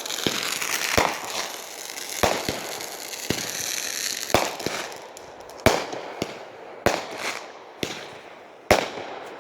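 Consumer fireworks going off: a string of sharp bangs, roughly one every half second to a second, with a crackling hiss between them in the first half that dies away after about five seconds.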